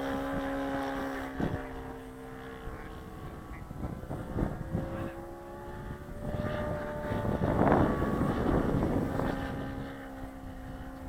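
Saito 180 four-stroke model engine of an RC Mew Gull, swinging an 18x6 propeller, running in flight; its steady note fades after about three seconds, returns higher and slowly rising, and is joined by a burst of rushing noise about eight seconds in.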